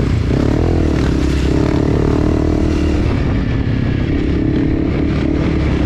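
Enduro motorcycle engine running as the bike is ridden, its pitch rising and falling with the throttle early on and then holding fairly steady.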